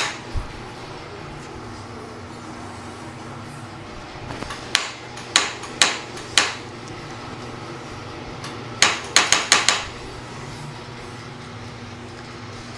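Harley-Davidson Evo starter solenoid clicking sharply, first as single clicks a second or so apart, then as a quick run of about six clacks near the end, with no engine cranking. The owner takes it for the starter solenoid in the primary not engaging.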